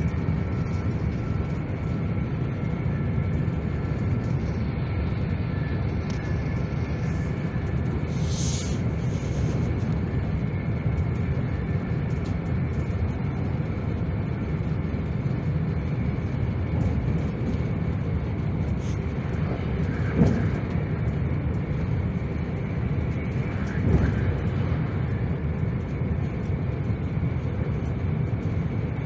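SJ passenger train running, a steady low rumble with a faint high whine over it. A brief hiss comes about eight seconds in, and two short knocks about twenty and twenty-four seconds in.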